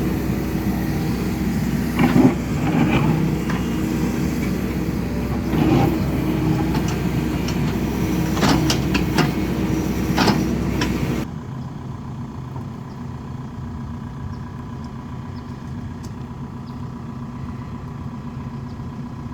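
Excavator engine running steadily under load, with several sharp clanks of metal and rock as the hole is backfilled. About eleven seconds in the sound cuts abruptly to a quieter, steady engine hum.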